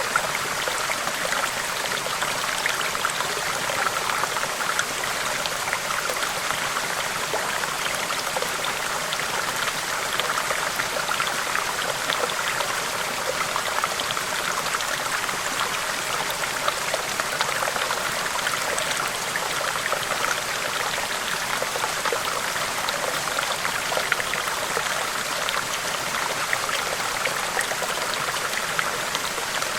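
A river flowing: a steady rush of water with a constant patter of small splashes.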